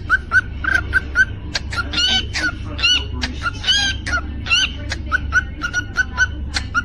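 Cockatiel chirping: a rapid run of short chirps, several a second, with a few rising and falling whistled notes in the middle.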